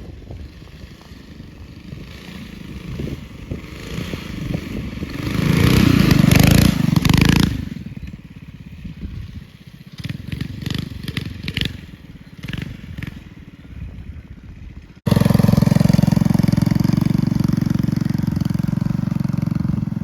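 Minibike engine running, building to a loud peak around six seconds in and then dropping away, with some clattering. After an abrupt cut near the end, the engine runs loud and steady close by.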